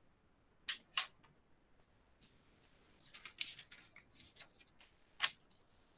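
Several short, sharp clicks against a quiet room: two about a second in, a quick cluster a little after the middle, and one more near the end.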